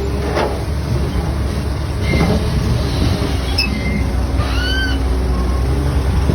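Heavy vehicle engine running with a steady low rumble. A short, high, arched animal call comes about four and a half seconds in.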